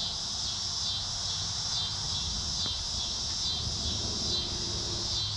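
Insects chirping steadily in a high-pitched chorus that pulses at an even pace, over a low steady rumble, with one faint click about halfway through.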